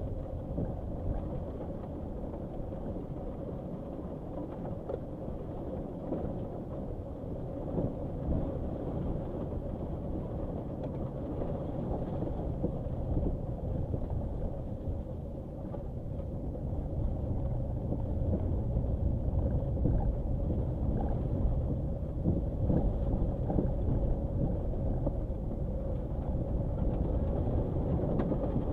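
Nissan Qashqai driving on a rough dirt track: a steady engine and tyre rumble with scattered short knocks from the uneven ground. It grows louder a little past halfway through.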